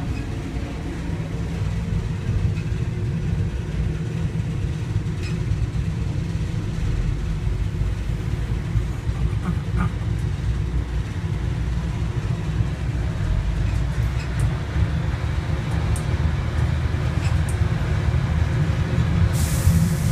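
Passenger train carriage running along the track, heard from inside: a steady low rumble with faint light clicks, and a hiss that comes in near the end.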